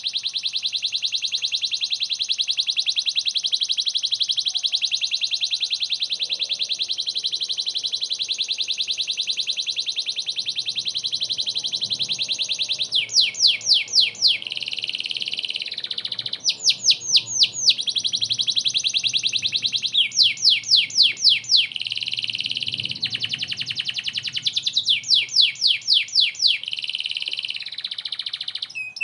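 Domestic canary singing in full, nonstop song: a long, rapid, high trill, then from about halfway through, four runs of fast, sharply swept repeated notes alternating with steadier trills.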